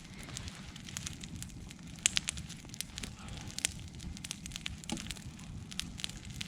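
Campfire of dry birch wood burning, with irregular sharp crackles and pops over a low steady rumble of the flames; a cluster of loud pops about two seconds in and another about three and a half seconds in.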